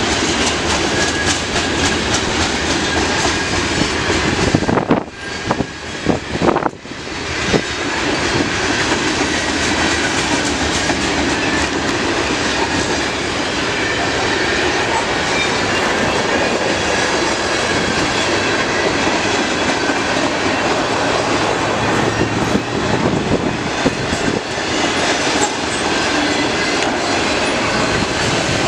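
CN mixed freight train cars rolling past, a steady loud rumble of steel wheels on rail with the clickety-clack of wheels over rail joints. The sound dips briefly about five seconds in, then carries on as before.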